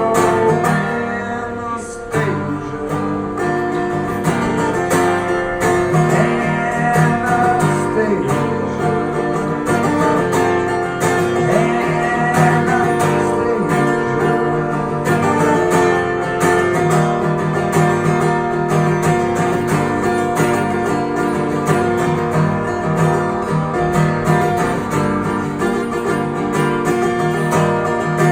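Acoustic guitar strummed and picked, an instrumental passage of a song played live.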